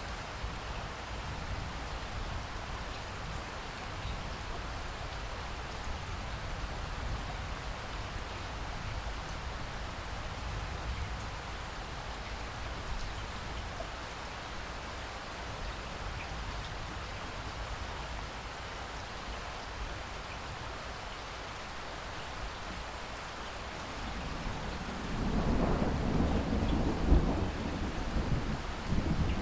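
Steady rain falling, then a low rumble of thunder rolling in near the end and growing loud.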